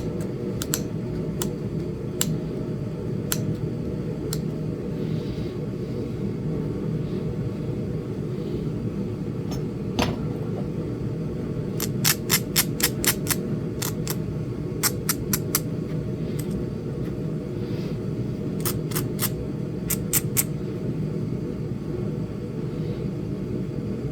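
Sharp clicks of flakes popping off a small Flint Ridge chert point as it is knapped: single clicks at first, then quick runs of four to six clicks about halfway through and twice more toward the end, over a steady low hum.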